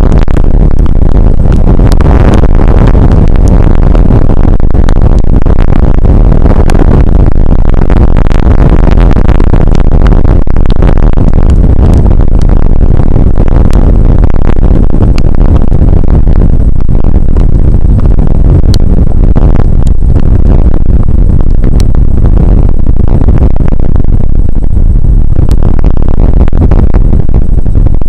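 Rain shower picked up by an outdoor weather camera's microphone: a very loud, steady rush with scattered sharp ticks, driving the microphone to full scale.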